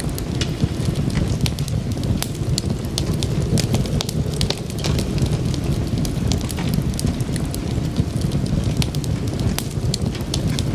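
Wood fire crackling, with frequent sharp pops and snaps at irregular intervals over a steady low rumble.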